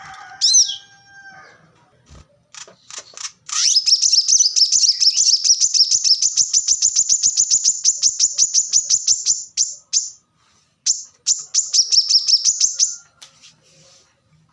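Plain-throated sunbird (kolibri kelapa) singing: a few short high chirps, then a long, fast trill of high notes repeated about nine times a second, a brief break, and a second shorter trill.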